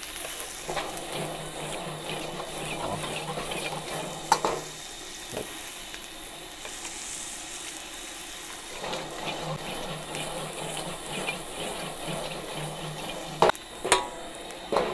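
Onion, garlic, ginger, galangal and lemongrass sizzling as they are stir-fried in hot oil over high heat. A spatula scrapes and stirs, with a sharp clank against the pan once early on and several louder clanks near the end.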